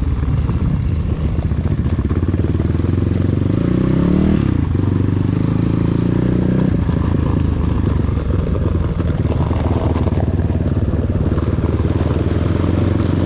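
Enduro motorcycle engine running under way, with a short rise in revs about four seconds in and easing off to a lower, steadier note from about seven seconds.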